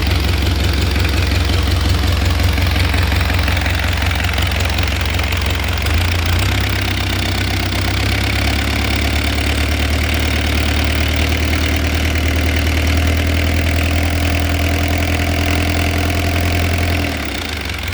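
Rebuilt Isuzu C240 four-cylinder diesel engine running steadily at idle. Its note shifts slightly about six seconds in, and it slows and drops in level near the end.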